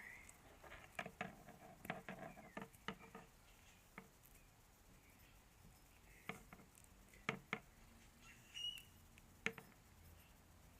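Faint handling noise from hands working on small wires: scattered light clicks and ticks, several in the first few seconds and a few more spread through the rest, with one brief squeak.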